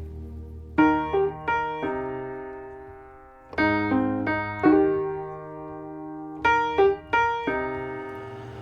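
Background piano music: slow phrases of struck notes and chords, each ringing out and fading before the next group.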